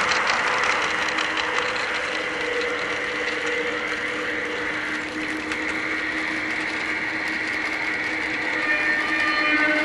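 M-Tronics Digisound diesel sound unit in a Gauge 1 Aristocraft Class 66 model locomotive playing a steady running diesel engine sound through its small speaker, while the model's geared drive whirs and clicks along the track.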